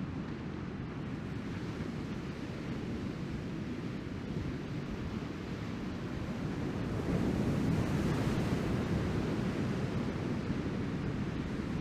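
Surf breaking and washing on the beach, with wind rumbling on the microphone; the wash grows louder about seven seconds in, then eases a little.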